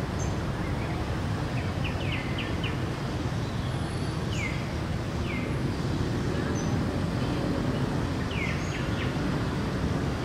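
Steady low background rumble with birds chirping over it: several short, high, downward-sliding chirps in small groups, a few seconds apart.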